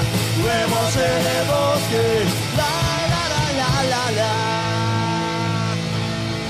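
Live band playing a loud rock-style song. A melody line slides between notes and settles on one long held note near the end.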